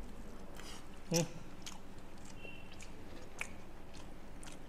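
Mouth chewing a pan-fried momo close to a clip-on microphone: scattered soft, wet clicks of biting and chewing, with a short hummed sound about a second in.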